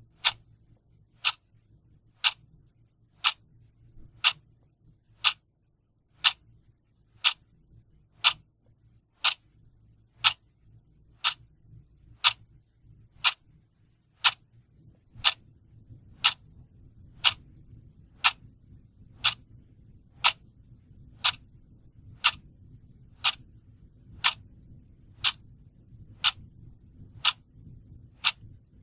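Clock ticking steadily, about one tick a second, with a faint low hum underneath that grows slightly about halfway through.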